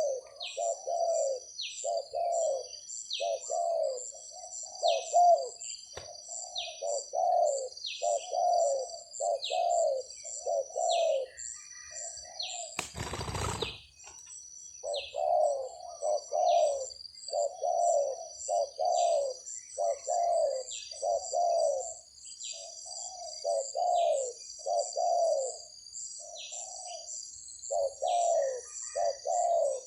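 Spotted doves cooing over and over, their low calls following one another about once a second in runs with short pauses, a wild dove answering. A steady high-pitched buzz with pulsing chirps runs underneath, and a brief loud rustle breaks in about 13 seconds in.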